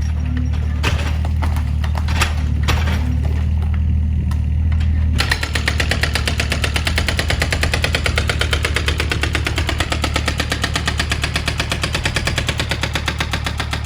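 Excavator diesel engine running with scattered knocks of material breaking; about five seconds in, a hydraulic breaker hammer starts pounding in a fast, even rattle that keeps going.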